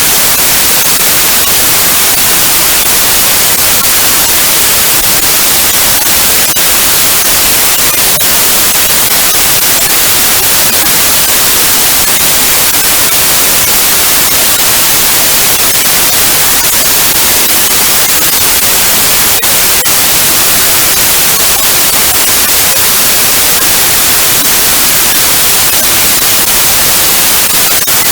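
Digitally generated white noise: a loud, steady, even hiss across the whole frequency range that does not change.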